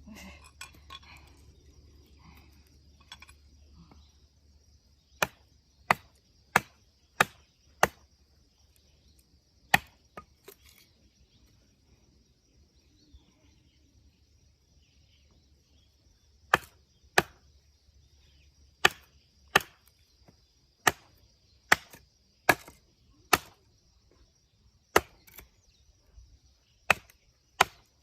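Firewood being split by hand: sharp chopping strikes of a blade into wood, in quick runs of two to five blows about half a second to a second apart, starting about five seconds in, with a pause of several seconds in the middle.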